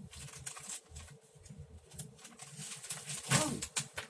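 Paper and journal pages being rustled and shuffled by hand in a series of short scrapes and taps, with one brief louder pitched sound a little past three seconds in.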